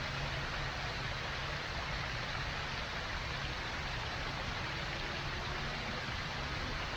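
Steady rushing noise with a low, fluttering rumble underneath, unchanging throughout.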